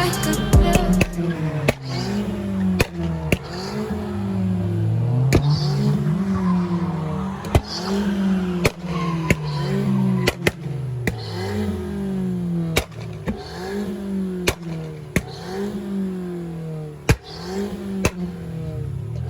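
Car engine revving up and down over and over, its pitch climbing and dropping about once a second, with sharp cracks between the revs.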